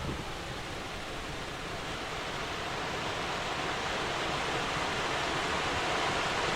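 Small waterfall on a creek, a steady rush of falling water that grows slowly louder.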